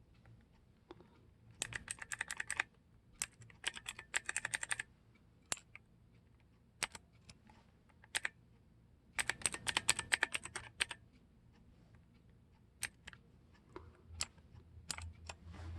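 Hansung XK1 BossMonster KLv.75 mechanical keyboard with clicky blue switches, keys pressed in three quick runs of rapid clicks with single key presses scattered between.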